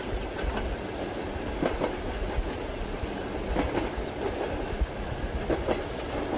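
Train carriage wheels running over rail joints: a steady rumble and hiss with clacks in quick pairs about every two seconds, heard from inside a passenger compartment.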